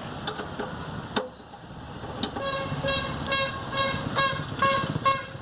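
A few sharp clicks, then, from about halfway through, a series of short horn-like beeps repeating a little over twice a second.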